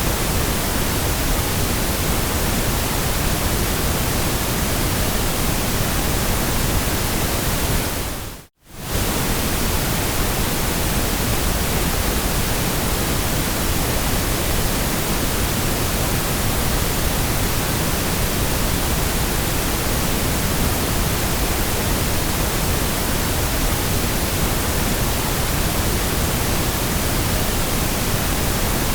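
Steady generated noise track: an even hiss spread across all pitches, with no changes in level. It fades out to silence and straight back in about eight and a half seconds in.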